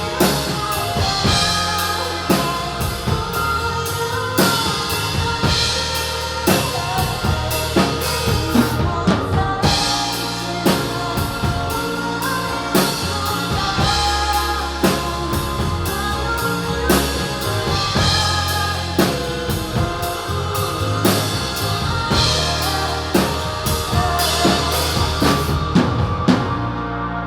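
Band music driven by a drum kit, with bass drum and snare keeping a steady beat under sustained pitched instruments.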